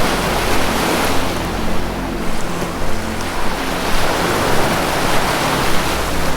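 Ocean surf: waves break and wash in as a rushing noise that swells about a second in and again around four to five seconds in. A low sustained music drone runs underneath.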